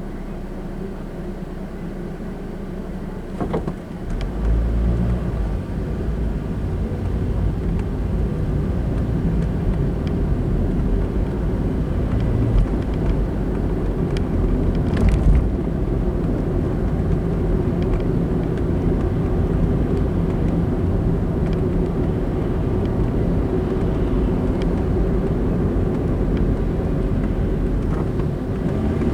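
Car heard from inside while driving: a quiet low hum for the first few seconds, then the engine and road rumble rise sharply as it pulls away and settle into a steady run.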